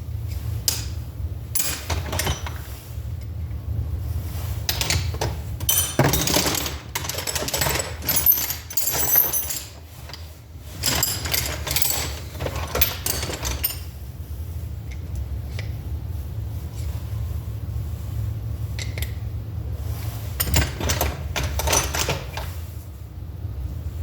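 Irregular metal taps, clicks and scraping of hand tools working a 6200 ball bearing onto the 4AFE distributor shaft, over a steady low hum. The knocks come in clusters, busiest through the first half and again near the end.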